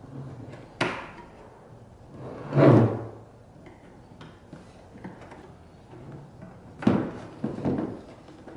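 A few separate knocks and scrapes of hard parts being handled and set down. The loudest comes about a third of the way in, and two more follow near the end.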